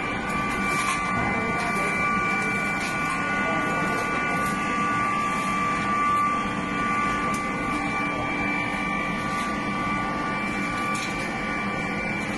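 Steady machinery drone in a foundry, with several steady high whining tones held throughout.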